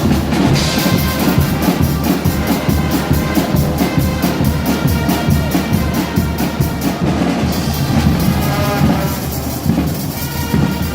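Guggenmusik band playing live: brass horns over a loud, driving beat of bass drum and other drums.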